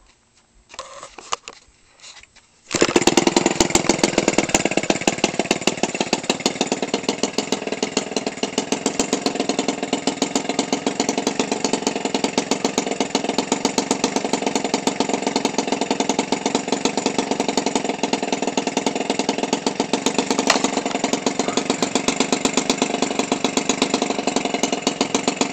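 Toro 28cc two-stroke trimmer engine, converted for a model airplane and turning a propeller, starts suddenly a few seconds in and settles at once into a steady idle with a fast, even firing beat.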